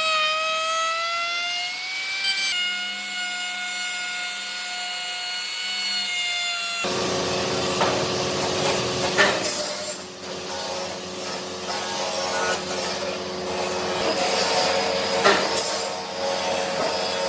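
Power tools working wood. First a steady high-pitched motor whine for about seven seconds, then an abrupt change to rough sawing and rubbing with a few sharp knocks.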